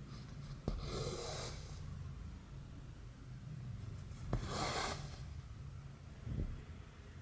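Hand cross-stitching: a needle pops through the fabric with a short click and cotton thread is drawn through with a swish, twice, over a low steady hum.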